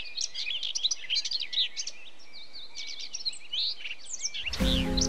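Many birds chirping, a dense run of quick, high chirps and short whistled sweeps. Music comes in near the end.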